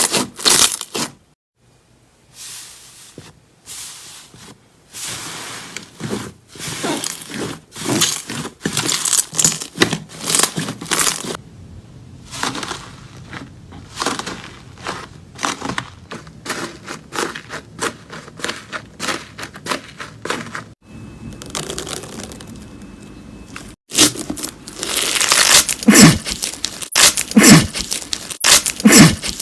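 Slime being squeezed, stretched and pressed by hand, giving dense runs of crackling, crinkling pops. The sound breaks off briefly about a second in and again near the end, then comes back louder.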